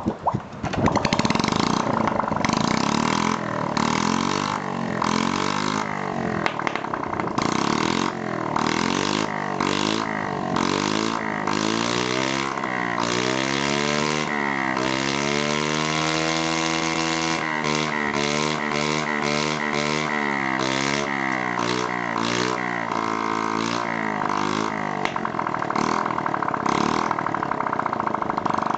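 Early Honda Chaly CF50's small four-stroke single-cylinder engine, just started and running at idle. Its revs rise and fall slowly a couple of times around the middle.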